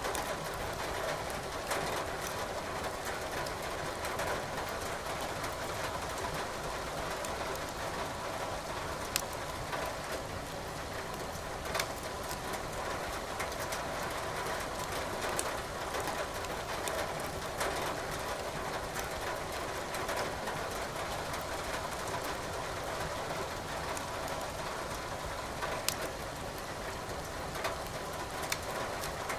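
Wood fire crackling in a fireplace, with sharp pops here and there, over the steady hiss of rain.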